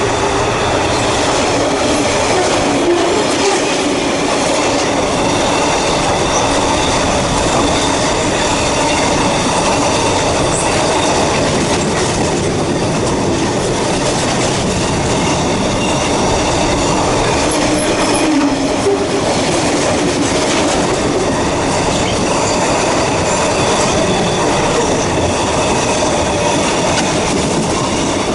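Container wagons of a long intermodal freight train rolling past close by. The wheels make a steady, loud rumble on the rails, with a faint high squeal ringing above it.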